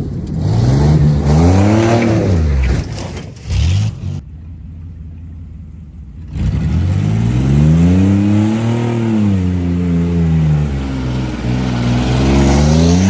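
Stock 4.3-litre V6 of a 1995 Chevy pickup revving up and falling back in pitch three times, the engine sound dropping away briefly around four seconds in before the next climb.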